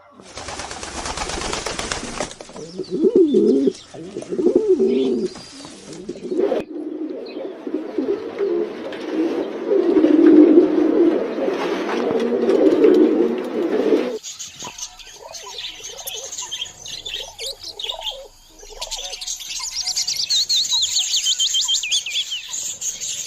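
Doves cooing for the first half, then high, quick chirping and twittering of small cage birds, typical of budgies or lovebirds, from about halfway through.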